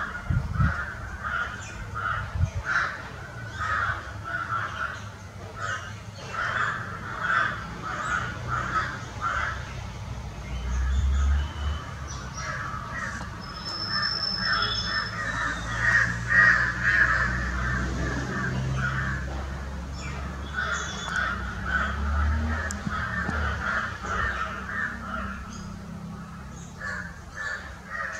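Birds calling in long runs of quick, short notes, about three or four a second, with brief pauses between runs, over a low rumble that comes and goes.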